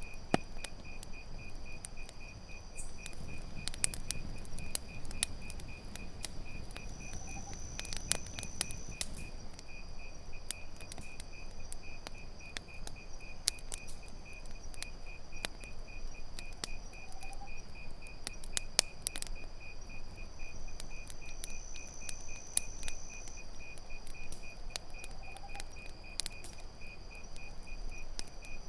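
Campfire crackling, with scattered sharp pops, over crickets chirping in a fast, even pulse and a steady high insect buzz. A faint short rising call comes back about every nine seconds.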